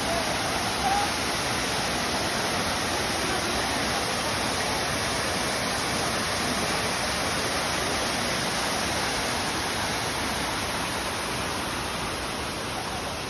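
Waterfall cascading: a loud, steady rush of falling water.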